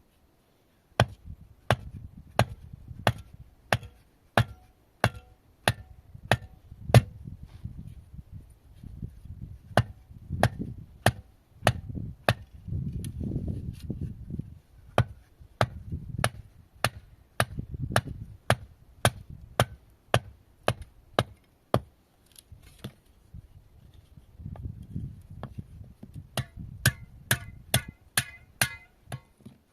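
Wood being chopped by hand, a steady run of sharp blade strikes about one and a half a second. The strikes break off for a few seconds and then resume faster near the end.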